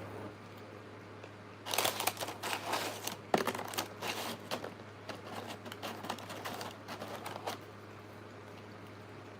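Food packaging crinkling as it is handled, a busy run of crackles lasting about six seconds with one sharp crack a couple of seconds in, over a steady low hum.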